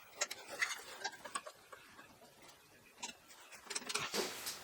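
Scattered light clicks and taps of small metal parts being handled, with a brief rustle near the end.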